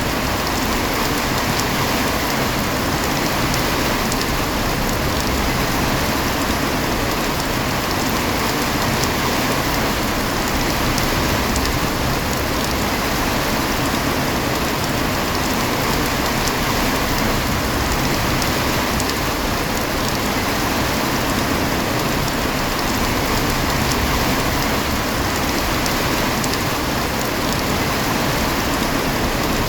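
Heavy rain falling steadily, a dense even hiss with many fine drop ticks on surfaces.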